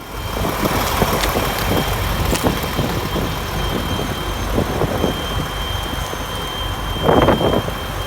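Wind buffeting the microphone over a vehicle engine running steadily, with irregular gusts and a louder gust near the end.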